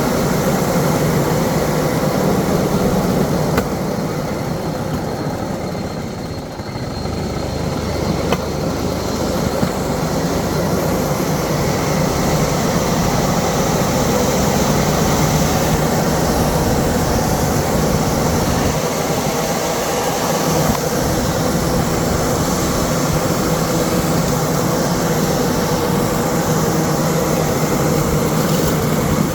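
A motor vehicle's engine running steadily with continuous travel noise, easing slightly for a few seconds near the start.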